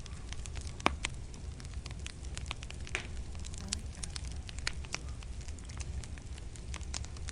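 Fireplace fire crackling, with irregular sharp pops over a low steady rumble; one louder pop about a second in.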